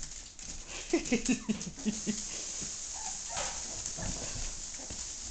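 Labrador retriever puppies whimpering: a quick run of short cries, each falling in pitch, about a second in, among faint scattered clicks.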